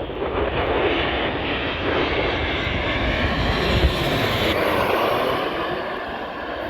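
Jet airliner passing low overhead. Its engine roar swells through the middle and eases off near the end.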